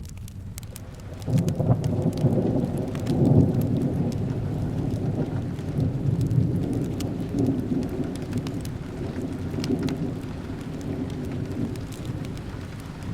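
Thunder rumbles in about a second in, loudest a couple of seconds later and then slowly rolling off, over steady rain. Scattered sharp crackles of a wood fire sound through it.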